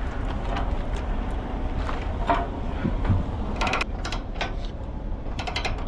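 Steady low rumble of an idling truck engine, with two short runs of rapid metallic clicking, about three and a half seconds in and again near the end.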